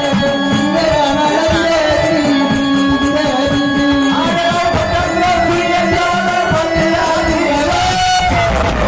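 Marathi folk devotional song in jagran gondhal style: a long-held, wavering sung melody over dense, steady drum beats.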